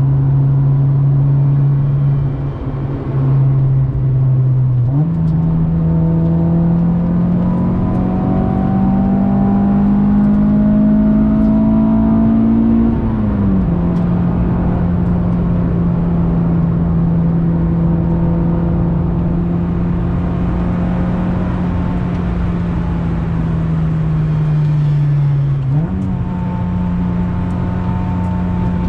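Acura Integra GS-R's B18C1 1.8-litre VTEC four-cylinder engine, through an aftermarket Yonaka exhaust, pulling the car along on the road. Its pitch jumps up about five seconds in and climbs steadily, drops sharply at an upshift about thirteen seconds in, sags slowly, then jumps up again near the end as revs rise.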